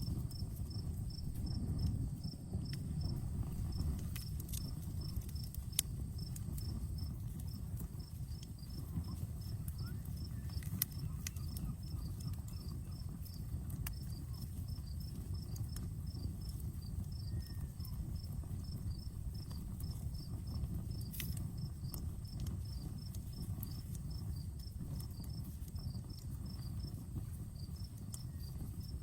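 Outdoor campfire crackling, with a few sharp pops over a low, steady rumble. A cricket chirps steadily throughout, about three chirps a second.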